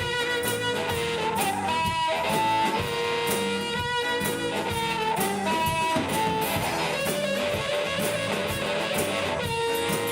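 A live band playing: guitar and drums, with a lead line of long held melodic notes over the top.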